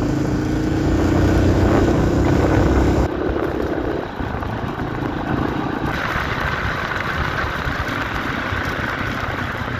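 Dual-sport motorcycle engine running under throttle, its pitch rising a little, then about three seconds in the sound changes abruptly to a rougher, noisier engine and wind rush.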